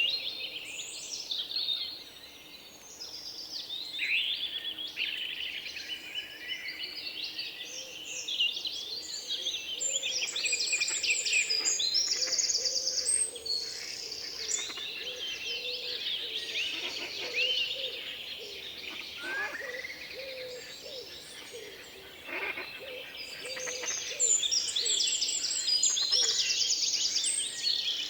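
Several birds chirping and singing at once, their calls overlapping, with two spells of fast, high trills.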